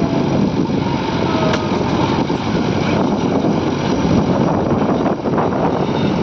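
Diesel engines of a JCB 3DX backhoe loader and a tractor running steadily and loudly as the loader works.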